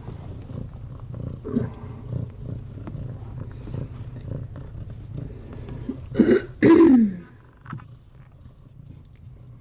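A cat purring steadily, with two loud meows about six seconds in, the second one falling in pitch.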